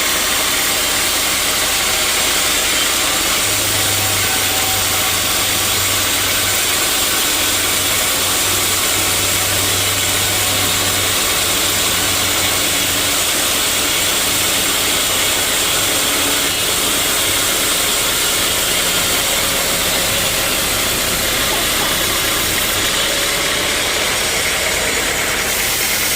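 Sawmill machinery running steadily: a loud, even mechanical noise with a low hum that comes and goes during the first half.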